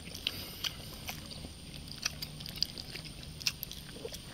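Close-up chewing of crispy pork sisig, with irregular short clicky crunches and mouth sounds.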